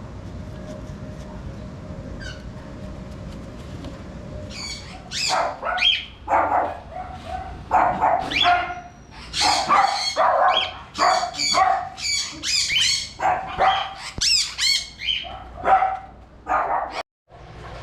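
Pet parrot giving a long run of loud, harsh calls, one or two a second, starting about four seconds in.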